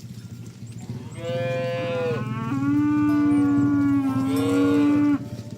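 A cow's long moo lasting about four seconds, starting about a second in and dropping to a lower pitch about halfway through.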